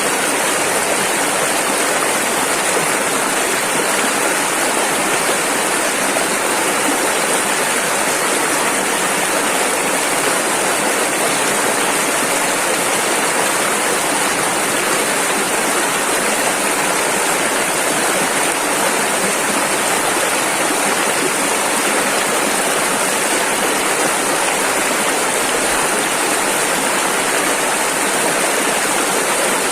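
Rushing river water running steadily, a dense, even rush with no breaks or changes.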